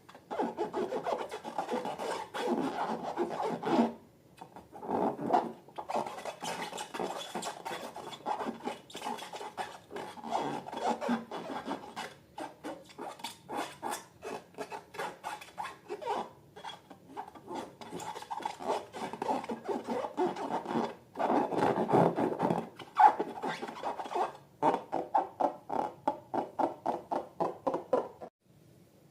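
Slime being mixed and worked by hand: runs of quick rubbing, scraping strokes broken by short pauses.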